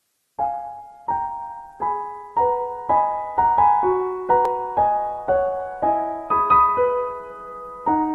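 Background music: piano chords struck one after another, each ringing and fading before the next, starting about half a second in.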